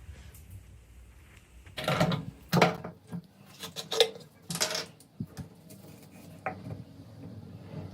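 Metal parts clinking and clattering as they are handled: a quick run of knocks and rattles about two seconds in, then a few lighter clicks.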